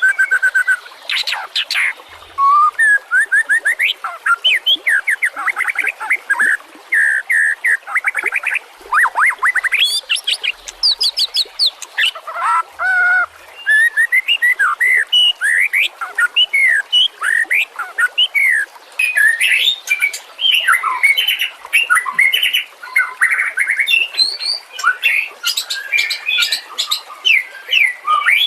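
White-rumped shama (murai batu) singing a continuous, varied song: clear gliding whistles mixed with fast trills and harsh chattering runs, phrase after phrase with only short gaps.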